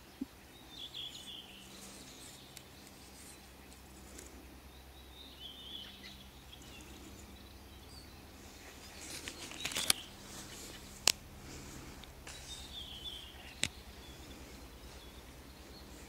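Songbirds singing short high phrases every few seconds in a quiet forest. Partway through come a few sharp clicks and a brief rustle.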